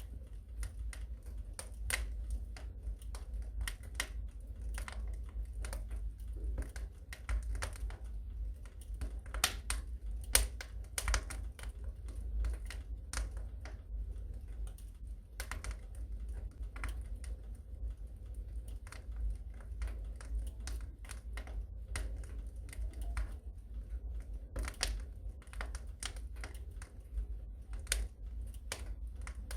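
Wood fire crackling in a fireplace: irregular sharp crackles and pops over a low steady rumble.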